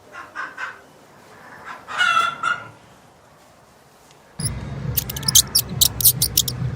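Rooster crowing, a pitched call with its loudest stretch about two seconds in. After a short lull, a steady low hum with a quick run of sharp clicks begins about four seconds in.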